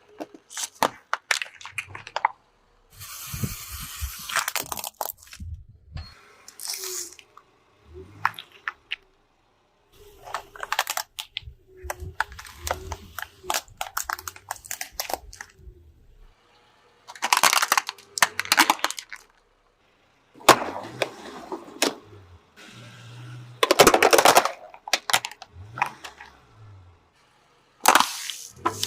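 Things cracking, snapping and crunching as they are crushed by a car, in a series of separate sharp cracks and crunches with short pauses between them; the loudest crunches come about two thirds of the way through.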